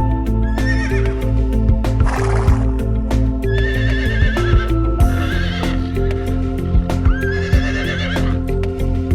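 A horse whinnying three times, each call a wavering high neigh of about a second, with two short breathy blasts between the calls. Background music with a steady beat plays underneath.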